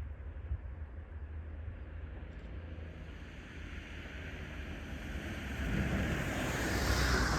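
A passing vehicle approaching: a rushing hiss that grows steadily louder from about three seconds in and peaks near the end, over a steady low wind rumble.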